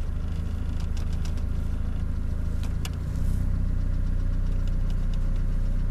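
Mercedes Vito's 2.3-litre M111 petrol four-cylinder engine idling steadily, with a faint click near the middle and the engine getting slightly louder about three seconds in.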